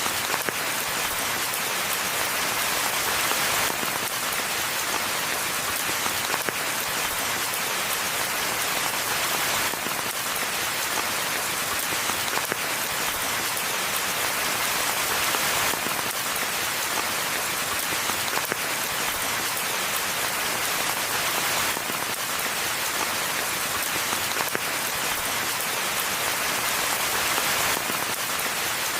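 Steady rain falling in a forest, an even hiss of countless drops with no lulls or gusts.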